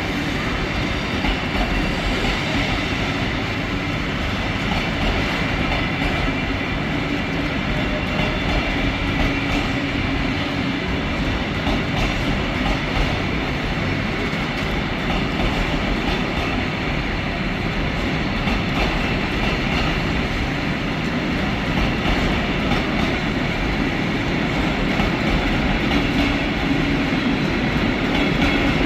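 Freight train of loaded timber wagons hauled by Class 70 diesel 70803 rolling steadily past, wheels clattering over the rail joints.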